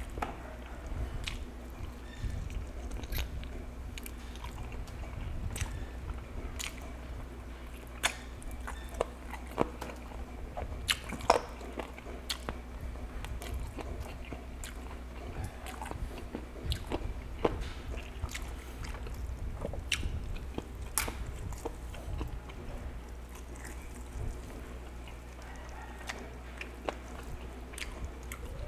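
Close-miked chewing of a mouthful of roast chicken, with sharp wet clicks and smacks scattered throughout, the loudest about eleven seconds in, over a steady low hum.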